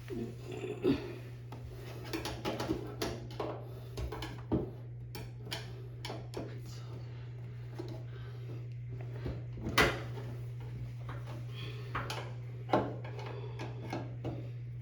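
Irregular clicks and knocks of hands and tools handling parts of a front-loading washing machine during a door-seal replacement, with a few sharper knocks, over a steady low hum.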